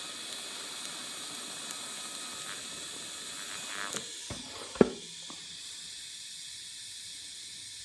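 Welding arc sizzling and crackling on galvanized steel for about four seconds, then stopping. There is one sharp knock about five seconds in, and a steady fainter hiss follows.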